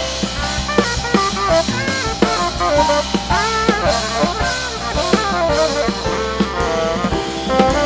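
Live jazz quartet of saxophone, vibraphone, piano with electronics, and drum kit playing, the drums busy with frequent sharp strikes under quick pitched melodic lines, some of them bending in pitch.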